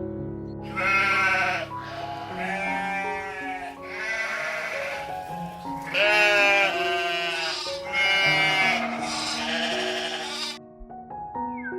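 Sheep bleating, about six wavering calls in a row, each about a second long, over background music.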